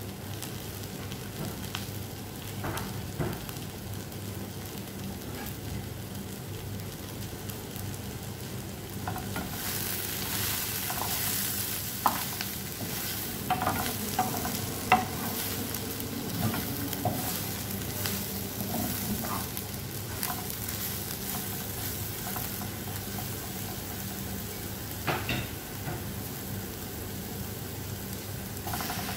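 Sliced eggplant and onion sizzling in a hot pan, the sizzle growing louder about a third of the way in as the pieces are stirred. A spatula scrapes and knocks against the pan, mostly in the middle and once more near the end.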